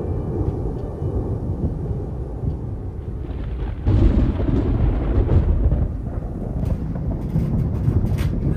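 Thunder rumbling loudly during a storm, swelling into a heavier roll about four seconds in and easing after, with a few sharp ticks near the end.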